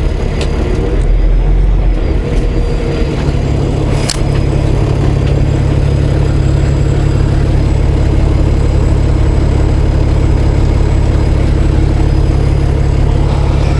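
Semi truck's diesel engine running steadily as a continuous low drone, with a single sharp click about four seconds in.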